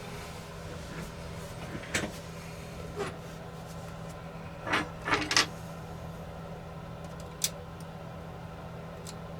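Small clicks and light scraping from handling a small drone's parts and tools, loudest in a quick cluster about five seconds in and with one sharp click a couple of seconds later, over a steady low hum.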